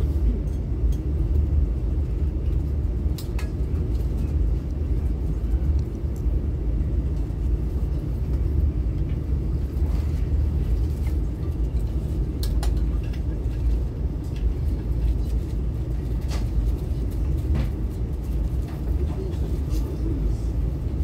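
Steady low rumble of a CRH high-speed train running, heard inside the passenger carriage, with a few faint clicks scattered through it.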